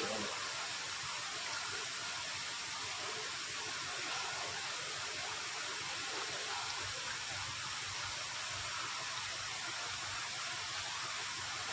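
Steady, even hiss with no distinct knocks or tones.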